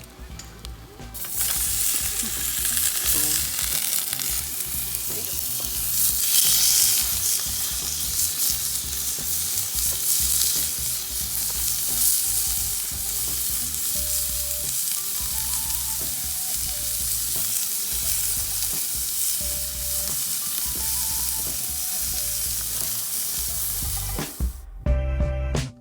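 Food sizzling and frying in a pan. The sizzle starts about a second in and cuts off suddenly near the end.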